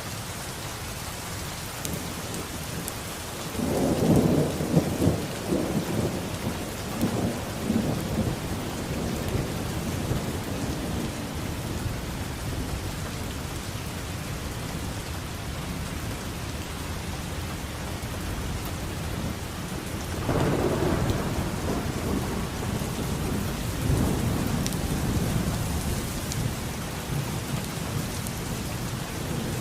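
Steady rain falling, with two rolls of thunder rumbling over it: the louder one begins about four seconds in and rumbles for several seconds, and a second starts about twenty seconds in.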